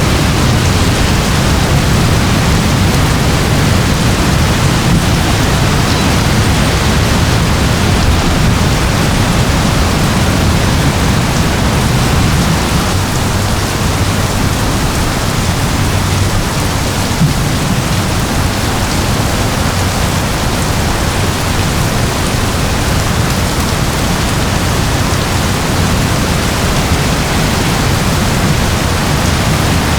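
Steady rain falling, an even unbroken hiss with a heavier low rumble underneath.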